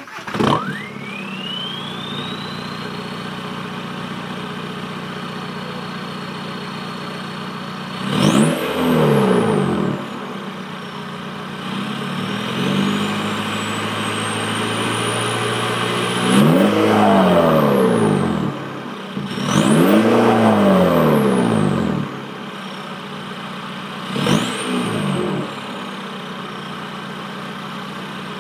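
Straight-piped (cat and muffler deleted) VW Golf Mk4 TDI 1.9 L four-cylinder turbodiesel starting and idling, then revved in several short blips. A high turbo whistle climbs with each rev and falls away slowly afterwards.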